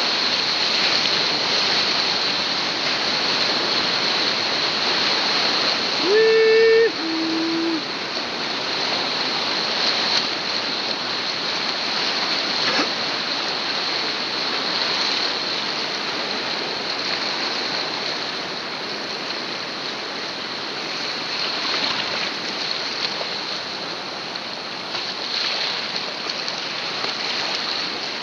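Whitewater of the Colorado River rushing and splashing around a kayak, heard through a helmet-mounted camera. About six seconds in comes a short two-note shout that steps down in pitch.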